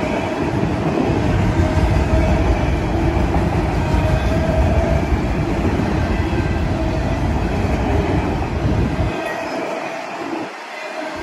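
Freight train of autorack cars rolling past, a steady loud rumble of wheels on the rails. The deep rumble dips out briefly near the end.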